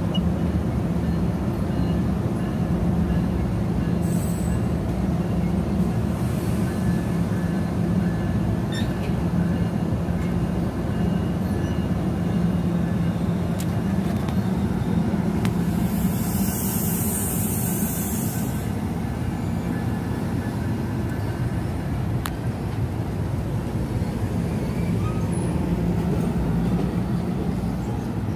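NJ Transit Multilevel commuter train pulling out of the station, a steady rumble and hum as the double-deck cars roll past. About sixteen seconds in, a sharp hiss of air lasts about two seconds.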